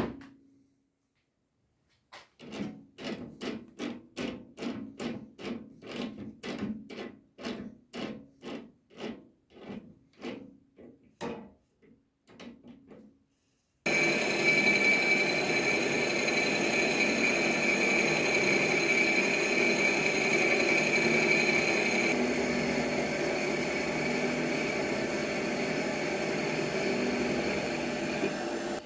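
About two strokes a second of rhythmic back-and-forth scraping, typical of hand filing or rubbing, for roughly ten seconds. These break off abruptly into a steady noise with a faint high whine.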